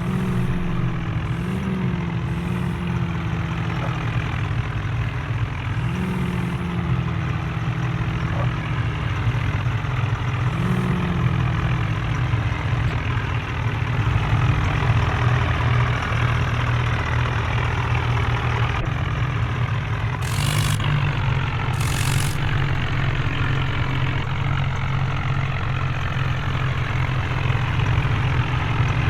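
Heavy diesel engine running steadily, with a few brief rises in pitch in the first ten seconds. Two short hissing bursts come about twenty seconds in.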